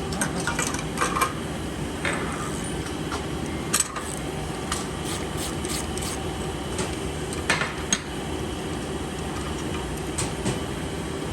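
Scattered small metal clinks and taps of tools and diesel injector parts being handled on a workbench during teardown. The sharpest clicks come about four and about seven and a half seconds in, over a steady machine hum.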